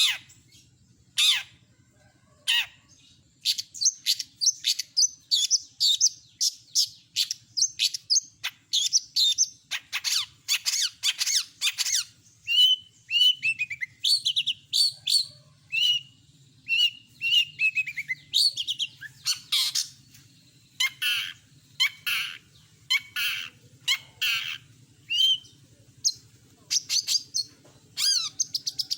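Long-tailed shrike singing a varied song of harsh, scratchy squawks and fast chattering phrases, with short falling runs of notes. The calls come thick and fast, with gaps of about a second between phrases.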